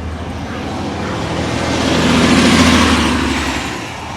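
A motor vehicle passing close by on a city street: its engine hum and tyre noise grow louder to a peak about two and a half seconds in, then fade away.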